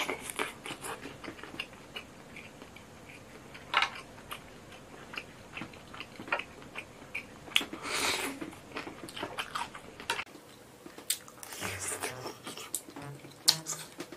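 Close-miked eating sounds: wet chewing and mouth smacks with many short crunchy clicks of bites, from a chilled sour-and-spicy shrimp dish with lemon and vegetables, and a longer sucking slurp about eight seconds in.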